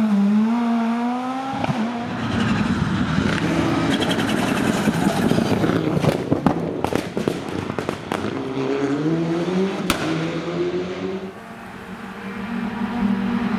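Rally car engine revving through gear changes, the pitch climbing and dropping, with a run of sharp cracks and pops in the middle. The revs rise again, dip briefly near the end, then settle into a steady engine note.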